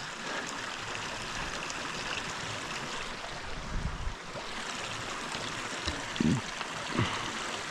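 Steady rush of running water, with a couple of brief low thuds or knocks near the end.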